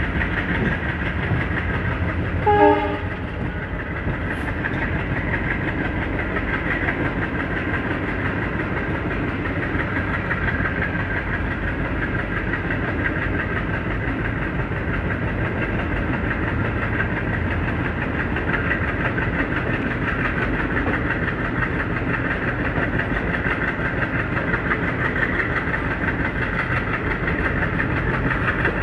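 Steady running noise of an ICF passenger coach over the track, with the WDM3A diesel locomotive working ahead, heard from the coach door. About two and a half seconds in comes one short horn blast.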